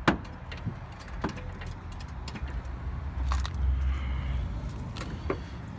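A jack under the engine being worked to raise it a little further: scattered metallic clicks and knocks, the sharpest right at the start, over a low rumble that swells in the middle.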